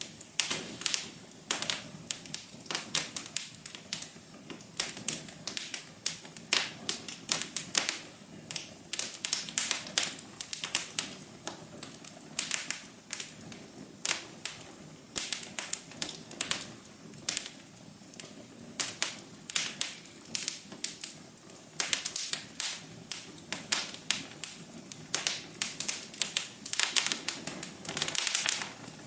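Wood fire in a fireplace crackling: irregular sharp snaps and pops, several a second, some louder than others, over a soft steady hum.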